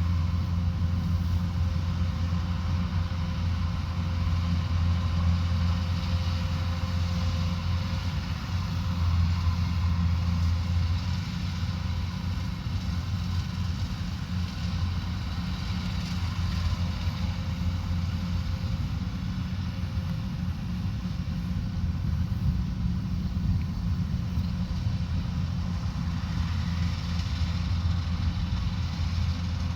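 Rice combine harvester running steadily, its engine giving a continuous low drone with a mechanical whirr over it.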